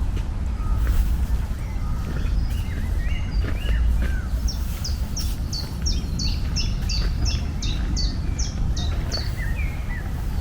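Birds chirping over a steady low rumble. From about four to nine seconds in, one bird repeats a quick series of a dozen or so short, high, downward-slurred notes, about three a second.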